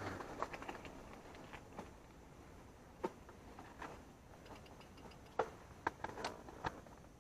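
Mountain bike rolling along a trail, with scattered sharp clicks and knocks from the bike, the loudest few coming close together about five and a half to seven seconds in.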